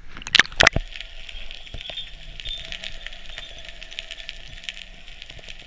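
Water splashing against a GoPro's housing: a few sharp knocks within the first second, then a steady crackling, fizzing hiss full of small clicks.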